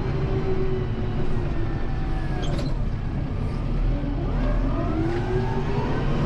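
Kubota M7060 tractor's four-cylinder diesel engine running under load. Its pitch dips around two to three seconds in and climbs again toward the end as the revs come back up.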